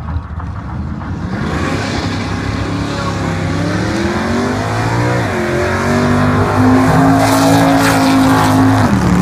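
Ford XF Falcon and Holden VK Commodore drag cars accelerating hard off the line side by side. The engine note climbs steadily, drops sharply about five seconds in at a gear change, then climbs again. It is loudest as the cars pass close by near the end.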